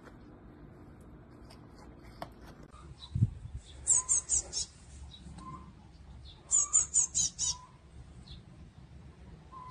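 A small songbird chirping: two quick runs of four or five high, sharp chirps, about four seconds in and again about seven seconds in.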